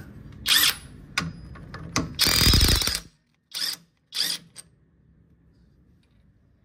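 Pneumatic impact wrench hammering in short bursts to loosen the 18 mm bolt that holds the shock absorber strut. The longest, loudest burst comes a little over two seconds in, followed by two brief blips.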